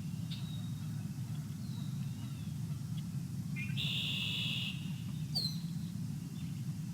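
Birds calling: a few short chirps and whistled notes, with a longer buzzy call about four seconds in, over a steady low hum.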